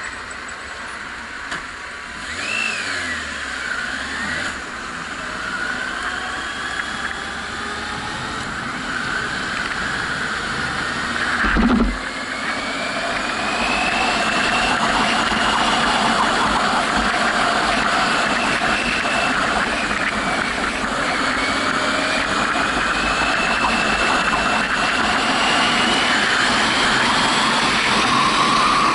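Yamaha FZS600 Fazer's inline-four engine pulling away and accelerating, its pitch rising in long climbs through the gears, over steady wind and road noise. There is a single thump a little before halfway, after which the noise is louder and steady.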